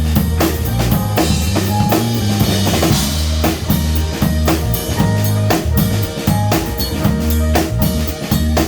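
Live jazz-funk band playing: a busy drum-kit groove of bass drum, snare and rimshots over a bass line, with a cymbal wash between about one and three seconds in.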